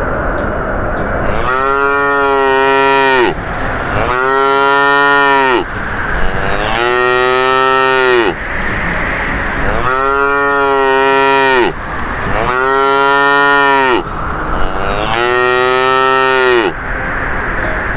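Cattle mooing: six long calls of about two seconds each at even intervals, each dropping in pitch as it ends, over a steady background hiss.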